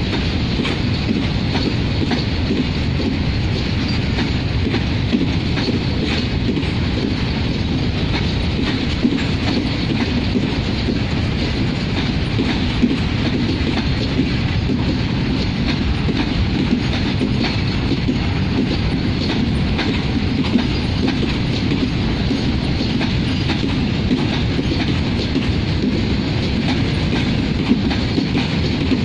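Loaded freight train of covered goods wagons rolling past close by: a steady rumble of steel wheels on the rails, with occasional sharp clicks as wheels cross rail joints.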